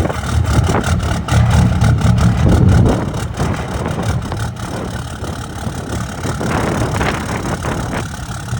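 Cummins diesel in a Ram pickup just after a cold start at about 40°F, running louder for about the first three seconds, then settling to a steady idle with an even diesel clatter.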